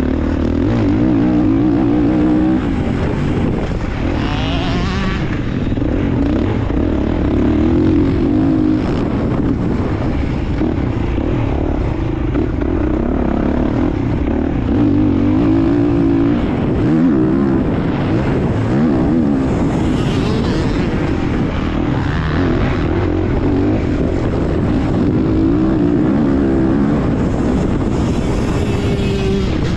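A 350cc four-stroke motocross bike's engine revving up and down repeatedly, with the throttle opening and closing as the bike is ridden, and steady wind rumble on the camera.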